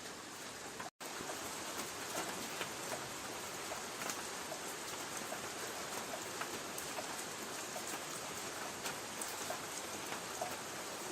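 Light rain on a tin roof: a steady hiss with individual drops ticking on the metal. The sound cuts out for an instant about a second in.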